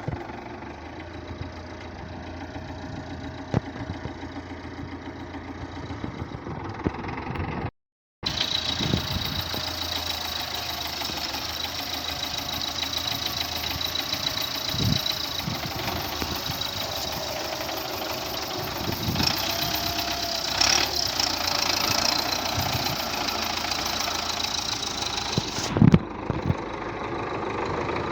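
MTZ-82 tractor's four-cylinder diesel engine running steadily, with a few clunks, the loudest near the end. The sound cuts out for a moment about eight seconds in.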